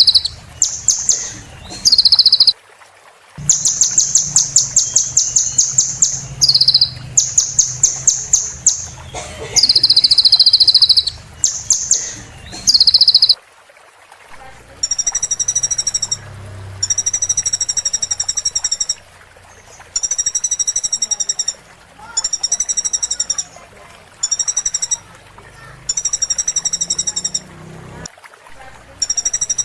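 Recorded small-songbird song, high and loud. The first half is rapid trills and sharp whistled notes. About halfway through it changes to a buzzy phrase repeated about once every two seconds.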